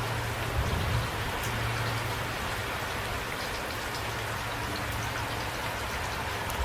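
Steady rain, with single drops heard as small ticks over an even hiss. Two brief low thumps come about half a second and a second in.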